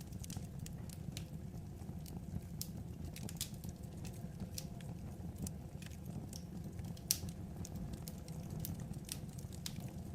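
Wood fire crackling: irregular sharp pops and snaps over a low steady rumble, with one louder pop about seven seconds in.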